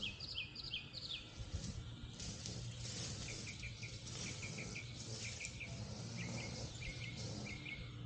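A bird chirping in series of short repeated notes, a quick run of falling notes at the start and evenly spaced chirps from about three seconds in, over a faint steady low hum.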